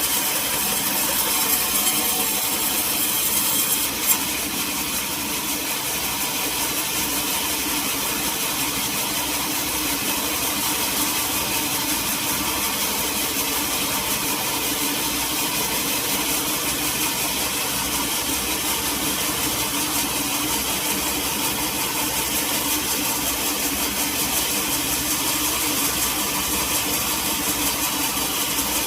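Engine-driven sawmill machinery running steadily, with a single sharp knock about four seconds in.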